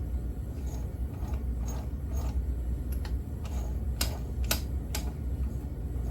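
Freshly assembled Yamaha YZ80 two-stroke bottom end being turned and shifted by hand: the gearbox and internals click irregularly, with the sharpest clicks about four to five seconds in, over a steady low hum. The clicks come from a final check that the transmission and shafts move freely after the cases were joined.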